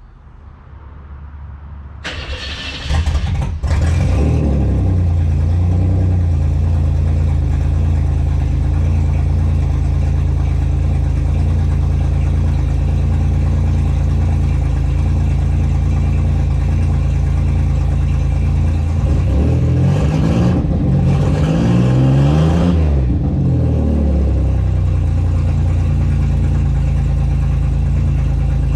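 A vehicle engine starting about two to three seconds in, then idling steadily, with its pitch rising and falling a few times about twenty seconds in as the throttle is worked.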